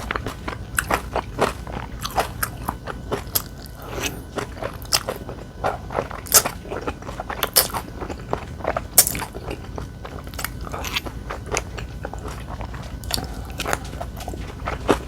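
Close-miked chewing and biting of food, with irregular crunchy crackles and a few sharper, louder crunches.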